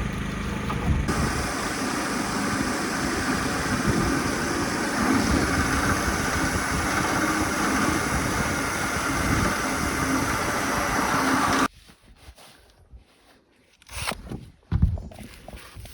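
Steady, loud engine-like mechanical noise that cuts off abruptly near the end, followed by a few scattered knocks.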